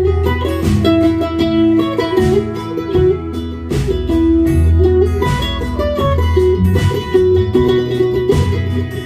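Live folk-rock band playing an instrumental break: a plucked-string lead melody over strummed guitar, bass and a steady drum beat.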